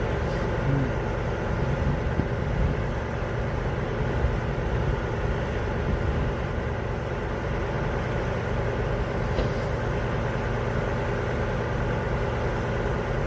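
Vehicle engine idling steadily, a low, even rumble with no change in pace.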